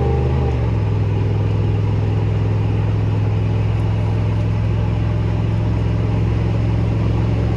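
1992 OBS GM pickup's stock V8 running steadily under way, smooth with no misfire on fresh spark plug wires. The engine note shifts about half a second in, then holds steady.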